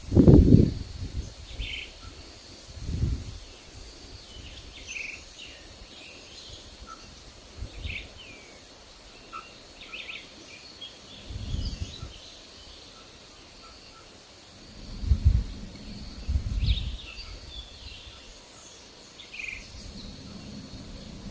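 Forest ambience: scattered short bird chirps and calls, with low gusts of wind rumbling on the microphone every few seconds, the strongest near the start. A faint steady insect-like drone sits underneath.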